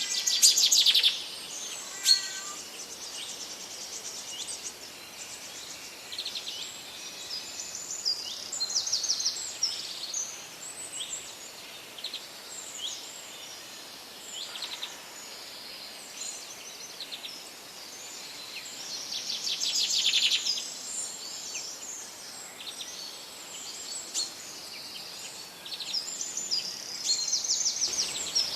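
Several songbirds chirping and trilling, with the loudest rapid trills about a second in and again about twenty seconds in, over a steady faint background hiss.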